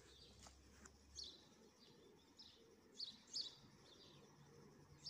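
Small birds chirping faintly: a few short, high chirps about a second in and again around three seconds in, over quiet outdoor background hiss.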